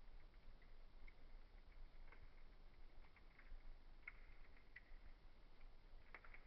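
Wood fire crackling faintly: a soft hiss with scattered small pops, and a quick cluster of sharper cracks near the end.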